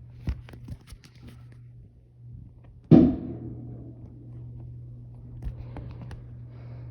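A firework going off: one loud bang about three seconds in, after a few sharp clicks near the start.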